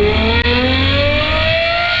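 Ferrari 812 GTS's naturally aspirated V12 under hard acceleration through a Novitec Inconel exhaust, its pitch climbing steadily as the revs rise, with a brief dip about half a second in.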